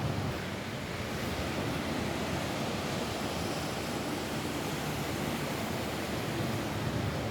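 Steady rain falling on a roof, a dense even hiss with no separate drops standing out.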